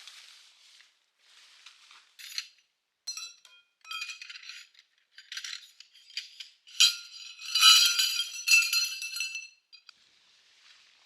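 Hard objects, metal or glass, clinking and rattling against each other in a run of handling sounds with short ringing tones. The sounds start about two seconds in, are loudest from about seven to nine seconds, then stop.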